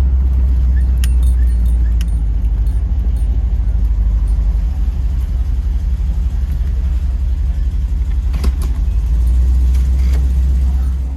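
1984 Pontiac Trans Am's V8 running at low speed as the car is eased into a parking spot: a steady low rumble heard from inside the cabin, with a few light clicks. Near the end the engine is switched off and the rumble drops away.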